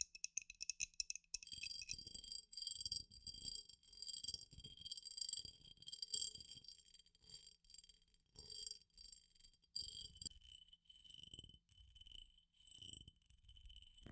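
High-pitched metallic jingling: something small and metal is shaken or rattled in many quick strokes, each leaving a thin ringing tone.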